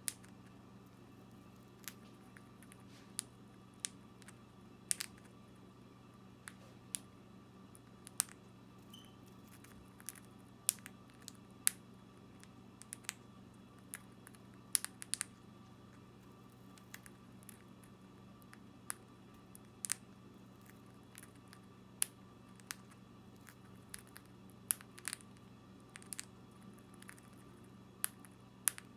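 Conure cracking millet seeds in its beak: small sharp clicks at an irregular pace, about one every second or two, over a faint steady hum.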